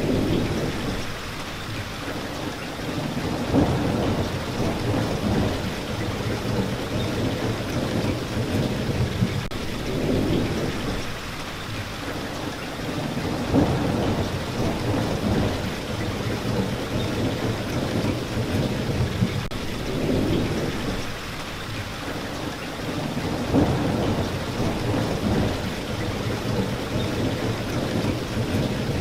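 Steady, heavy rain hissing evenly, with a low rumble that swells and fades every three to four seconds.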